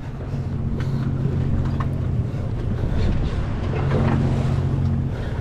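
Fishing boat's engine running with a steady low hum, under a haze of wind and water noise.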